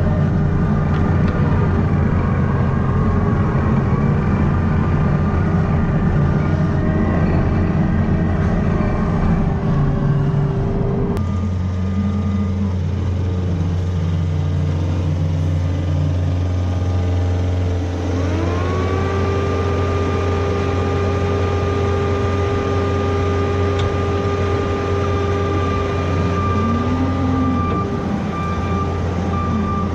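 Diesel tractor engine running steadily under work. About a third of the way in the sound changes abruptly, and past halfway a high whine rises and then holds steady.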